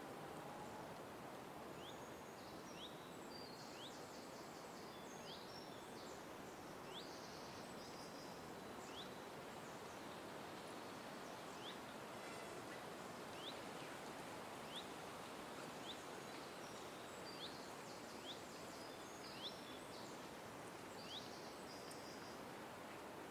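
Birds calling: a short rising chip note repeated about once a second, with bursts of rapid, high twittering in between, over a steady rush of background noise.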